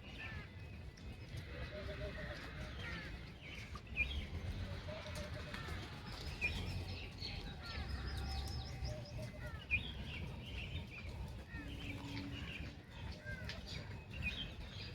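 Birds chirping: many short, quick calls keep coming over a steady low rumble.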